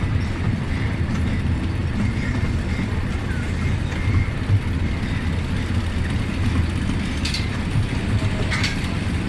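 Small amusement-park train running along its track, heard from aboard: a steady low rumble with a few faint clicks near the end.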